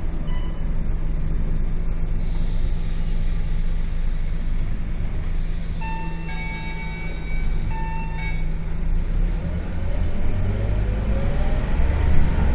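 Scania K230UB bus's Euro IV diesel engine running steadily, then revving up with a rising pitch from about ten seconds in as it accelerates. Two short beeps sound around six and eight seconds in.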